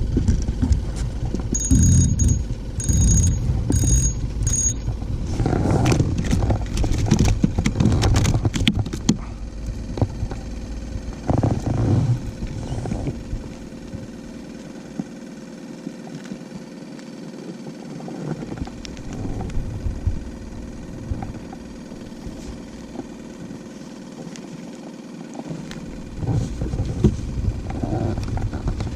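Low, steady rumble of wind and water with handling rustles, and four short, high-pitched electronic-sounding beeps in quick succession near the start.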